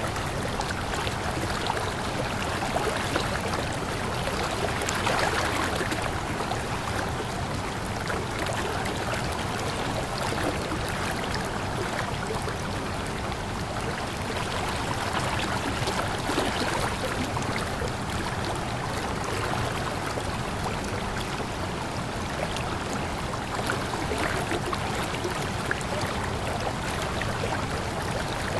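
Running water flowing steadily, an even rushing with many small splashes and trickles throughout.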